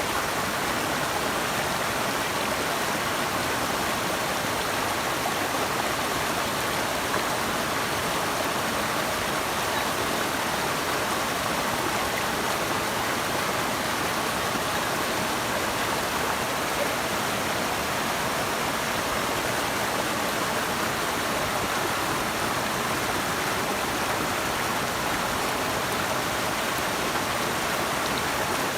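Running water rushing steadily, an even, unbroken wash of sound strongest in the mid and upper range.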